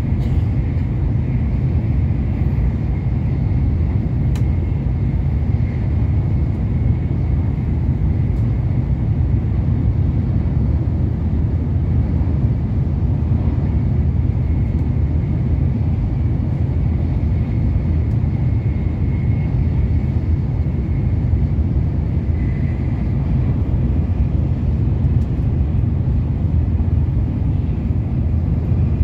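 Shinkansen bullet train heard from inside the passenger cabin while running at speed: a loud, steady low rumble with a faint high whine above it.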